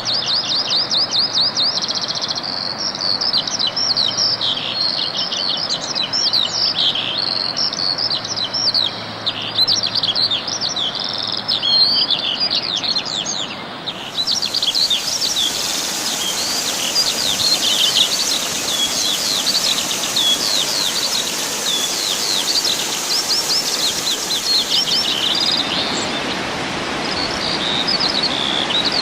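Birds singing outdoors, a dense chorus of rapid high chirps and trills that runs on without a break. A steady high hiss comes in about halfway through and drops away near the end.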